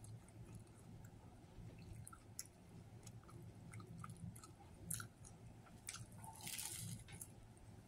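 A man chewing a mouthful of Subway club sandwich, with soft wet mouth clicks. He takes another bite about six seconds in, heard as a brief louder rustling hiss.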